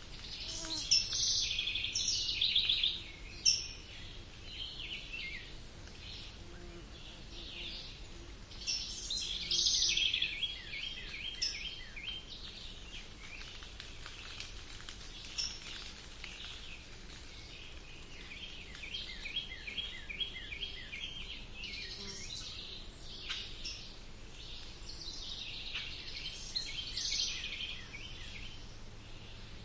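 Several birds singing and calling together, overlapping phrases of chirps and trills, with louder bursts about a second in and near ten seconds, and series of rapidly repeated notes.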